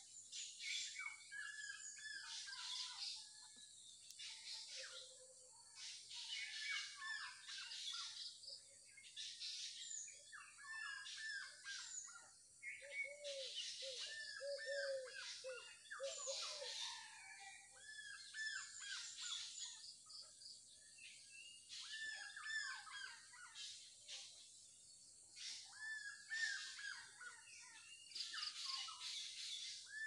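Several wild birds chirping and calling: clusters of short falling whistles, quick high chirps, and about halfway through a brief run of lower notes, over a steady high hiss.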